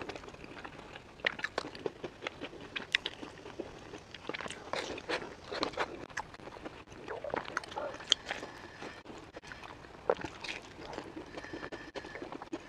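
Biting and chewing a sesame-crusted pumpkin pastry with black sesame filling: irregular crisp crunches and wet mouth clicks, many short sounds in no steady rhythm.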